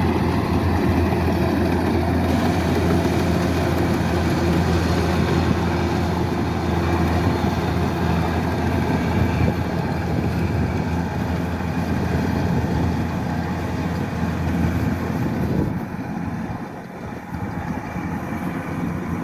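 Kubota DC-108X rice combine harvester's diesel engine running steadily, with a low, even hum and machinery noise; it drops somewhat in level about three-quarters of the way through.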